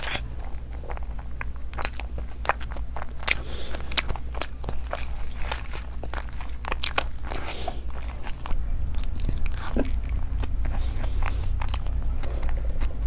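Close-miked eating: a run of crisp crunchy bites and chewing, irregular sharp crunches, over a steady low hum.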